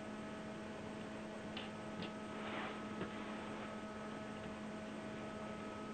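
Steady electrical hum, with a few faint short rustles and a light click about three seconds in.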